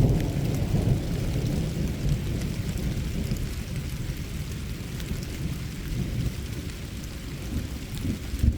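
Thunder rumbling and slowly dying away, with a brief sharper boom near the end, over light rain pattering.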